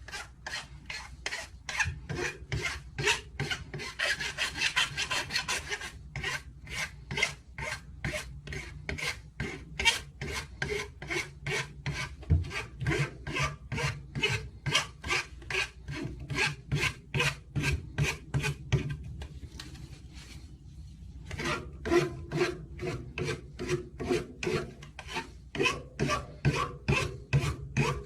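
A hand tool rasping back and forth in steady strokes, about two a second, with a short pause about twenty seconds in.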